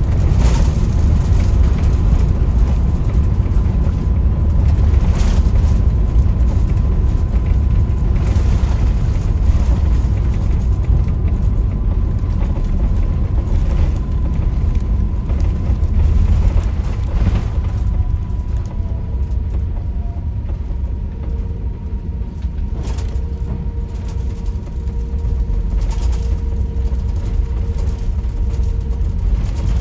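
Cabin noise inside an Airbus A350-1000: a steady low rumble with a faint steady whine, a second lower tone joining about two-thirds of the way in, and a few short thumps.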